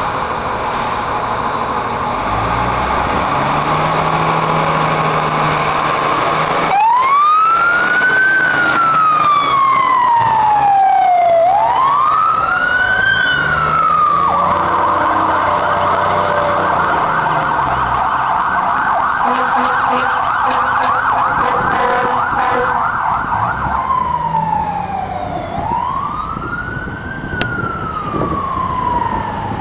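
Fire engine responding with its siren on. The siren goes through a slow rising-and-falling wail, switches to a fast warbling yelp for about ten seconds midway, then returns to the wail.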